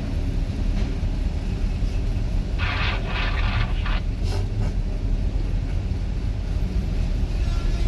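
Steady low engine rumble of idling vehicles, with a brief louder, higher-pitched sound lasting about a second, starting two and a half seconds in.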